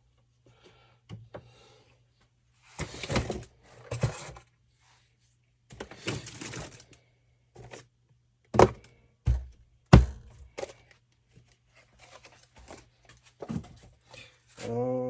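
Things being handled and set down on a workbench: some rustling and shuffling, then a few sharp knocks, the loudest about ten seconds in.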